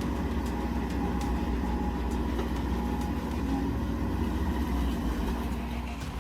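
Excavator's diesel engine running steadily under load: a constant deep rumble with a faint hum above it.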